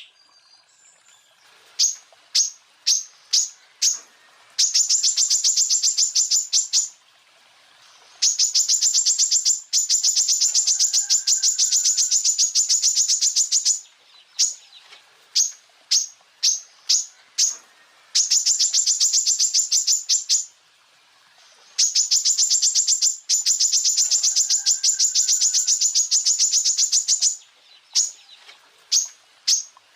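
Cucak ijo (leafbird) song: single sharp high chirps spaced about half a second apart, alternating with long rapid trills of repeated high notes, the 'tembakan' bursts, each lasting several seconds. Four such trills, the longest about six seconds.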